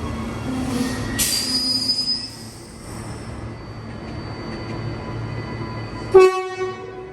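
Commuter train at a station platform: a steady low rumble, then a sudden burst of air hiss with a thin squeal a little over a second in. Near the end comes a brief, loud pitched blast with many overtones, fading within a second.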